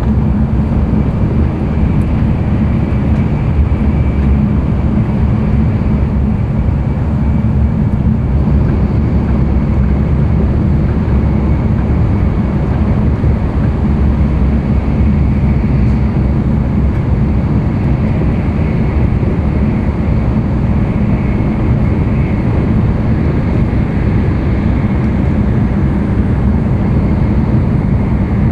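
Running noise heard inside the passenger car of an N700-series Tokaido Shinkansen train: a steady, loud low rumble with a faint high tone held above it.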